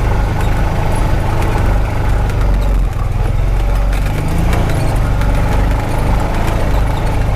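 Honda Pioneer 520 side-by-side running steadily at low speed, its engine droning low, with scattered knocks and rattles from the machine as it rides over rough ground.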